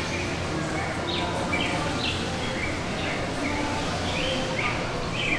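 Small birds chirping in short sliding calls, a couple per second, over a steady low background din.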